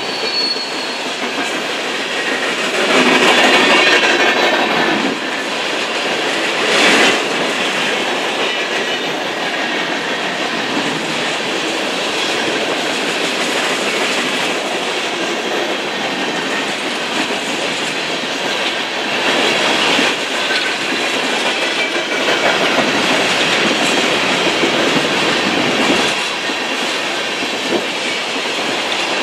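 BNSF train cars rolling past on the tracks, a steady clatter of wheels over the rail joints. It swells for a couple of seconds about three seconds in, with a brief louder clack about seven seconds in.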